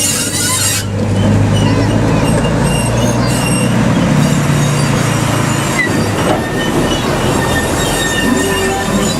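A diesel train running on the rails. A steady low engine drone runs throughout, and the high wheel squeal fades out about a second in.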